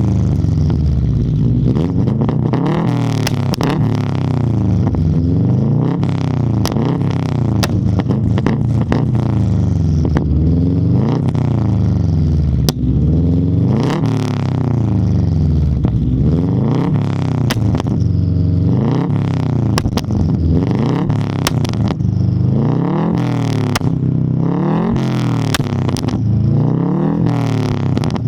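2016 Subaru WRX STI's turbocharged 2.5-litre flat-four engine under hard driving, its pitch climbing and dropping again and again as it revs up through the gears and falls at each shift, with short sharp bursts of noise between pulls.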